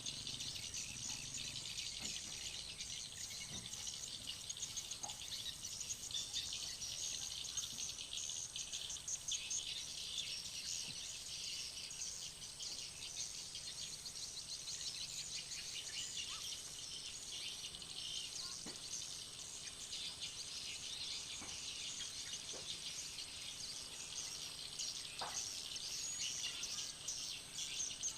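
Dense, continuous twittering of many swiftlets (edible-nest swiftlets), a rapid mass of high chirps, with a thin steady high whine underneath.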